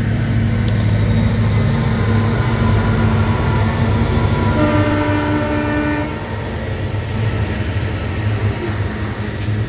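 Freight train hauled by two Aurizon diesel locomotives passing, the engines running with a steady low hum and the wagons rolling by. A horn sounds for about a second and a half near the middle.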